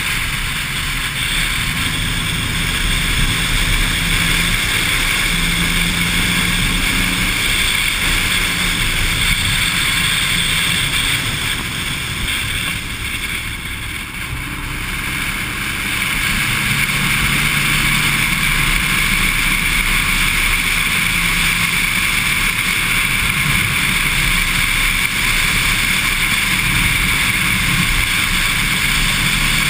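Honda Civic EG9 SiR's 1.6-litre four-cylinder engine running hard around a race circuit, under heavy wind and road noise on the microphone. The engine note and overall level ease off briefly about halfway through, then pick up again.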